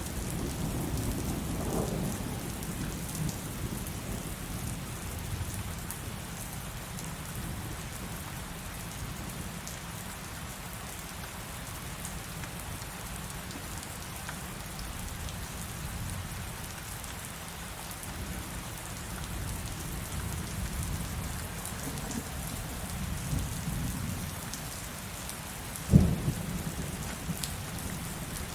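Heavy rain falling steadily, with thunder. A low rumble dies away over the first couple of seconds. Softer rumbles come back late on, and a sudden sharp thunderclap near the end is the loudest sound.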